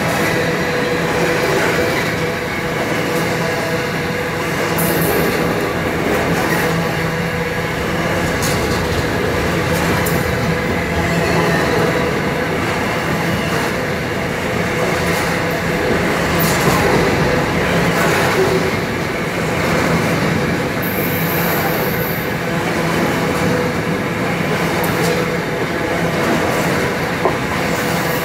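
Empty covered hopper freight wagons rolling past at close range: steady noise of steel wheels running on the rails, with scattered knocks and a brief high-pitched wheel squeal about three quarters of the way through.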